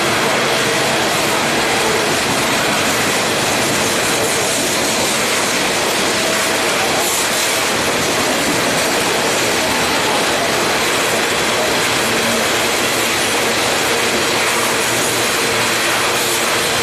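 Norfolk Southern freight train rolling past, a loud steady rush of wheels on rail that holds level throughout.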